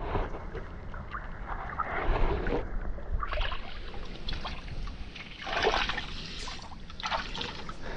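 Shallow seawater splashing and sloshing in irregular swishes.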